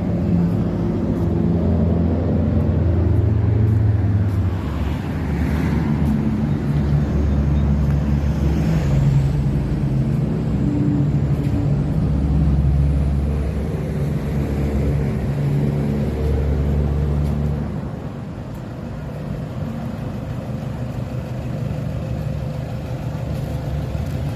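A motor engine running with a low drone whose pitch shifts up and down in steps, growing quieter after about eighteen seconds.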